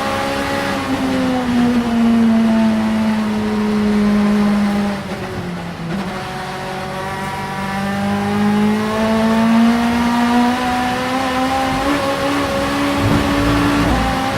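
Supertouring Vauxhall Vectra's two-litre racing engine running hard. Its note falls early and holds, dips briefly about five to six seconds in as the throttle comes off, then climbs slowly and steadily again.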